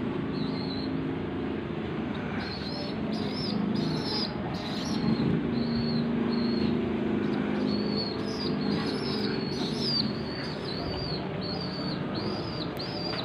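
A bird chirping over and over in short, high notes, about one or two a second, above a steady low background hum.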